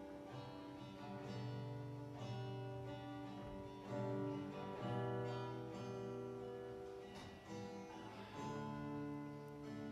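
Acoustic guitar strummed, each chord left ringing with a new one struck every second or two.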